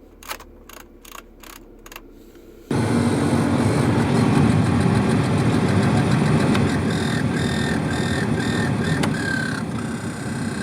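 A few clicks, then about three seconds in a car's AC/heater blower fan comes on suddenly and runs loud and steady with a rattling whir. The owner puts the noise down to leaves or dirt caught in the blower fan, or a failing blower motor.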